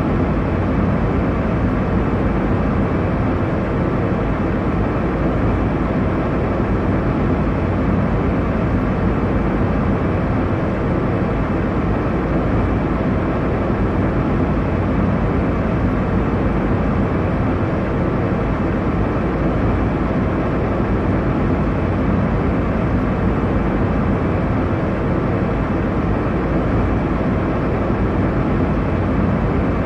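Airliner cabin noise in flight: a steady, even rush of engine and airflow noise, strongest in the low and middle range, with no changes.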